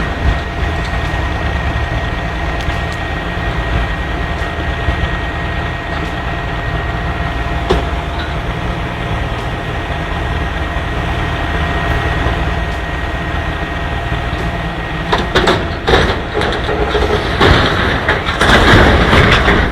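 Heavy truck engine running steadily, a low rumble with a constant high whine over it. In the last few seconds come several sharp knocks and a louder burst of rushing noise.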